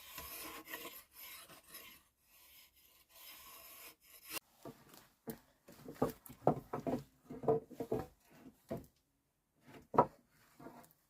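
Wood being worked by hand: a rasping scrape for about four seconds, then a run of irregular knocks and taps, with one louder knock near the end.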